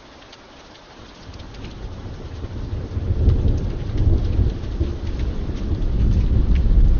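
Steady rain with scattered sharp drop ticks; about a second in, a low rumble of thunder builds up and keeps rolling loudly.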